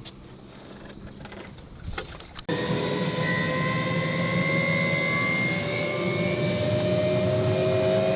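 A couple of faint knocks, then about two and a half seconds in a helicopter's turbine engine and rotor start up loud and steady, with a whine that rises slightly in pitch.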